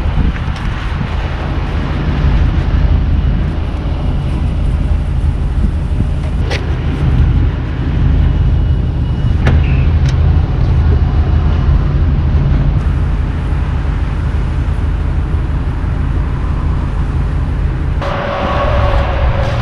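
Engine and road noise heard inside a moving vehicle's cabin, a steady low rumble with a few brief clicks. Near the end the engine note rises and grows louder.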